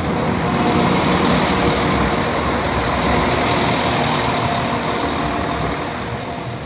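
Northern Class 195 diesel multiple unit passing close by over a level crossing, loud and steady, its diesel engines running under the sound of its wheels on the rails.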